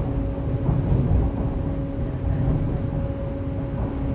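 MTR East Rail Line R-Train running at speed between stations, heard from inside the carriage: a steady rumble of wheels on track with a constant motor hum.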